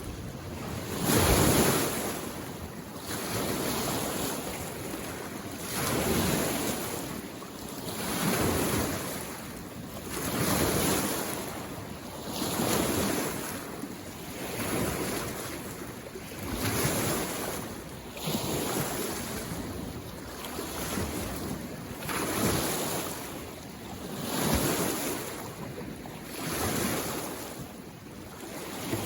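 Small waves on a mountain lake lapping in against the shore in a steady rhythm, a soft wash swelling and falling about every two seconds.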